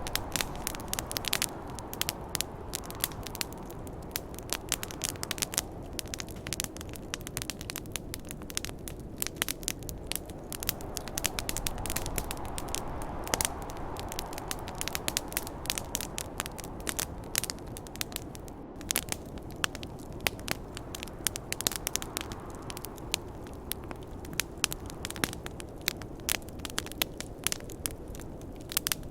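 Wood fire crackling, a dense run of irregular sharp pops and snaps, over a steady low rush of snowstorm wind that swells for a few seconds around the middle.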